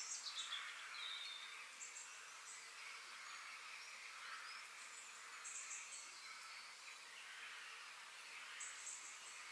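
Forest birds singing: short, high chirping bursts recur every few seconds, with a falling whistled note near the start, over a faint, steady background of more distant birdsong.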